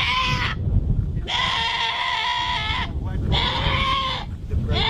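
Goat bleating as it is held down for halal slaughter: three loud calls, the middle one the longest, with a fourth starting right at the end. Low rumbling handling noise runs underneath.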